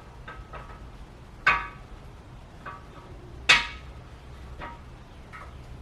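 Steel camshaft clinking against the new cam bearings and journal bores of a Ford 292 Y-block as the cam is worked into the block: a series of sharp metallic clinks that ring briefly, two of them much louder, about a second and a half and three and a half seconds in.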